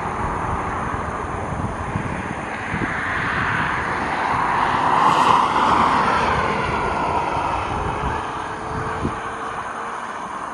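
Jet engines of a Ryanair Boeing 737 airliner passing by, swelling to their loudest about halfway through, then easing off with a falling whine.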